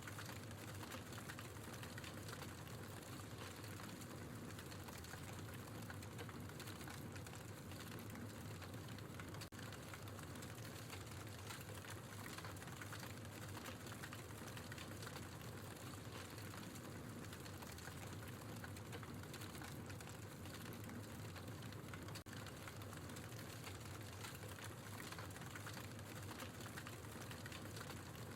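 Wood logs burning in a fireplace, crackling steadily with dense small pops and ticks over a soft low rumble.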